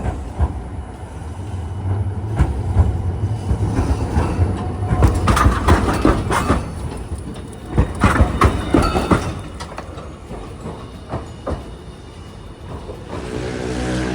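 Hiroshima streetcar passing, its steel wheels clattering and knocking over rail joints and points above a low rumble. The clatter is densest through the middle and thins out toward the end.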